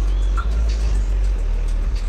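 Deep bass from a competition car audio system's subwoofers, loud and sustained, the low notes shifting a couple of times.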